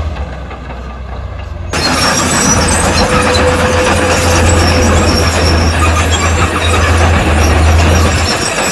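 Heavy construction machinery with a diesel engine running under a steady low drone; about two seconds in, a loud harsh grinding noise of machine work sets in suddenly and carries on.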